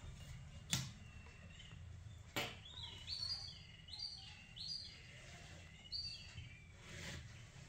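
Faint chirps of a small bird, a run of quick short calls in the middle, over a low steady hum. Two light taps come in the first few seconds.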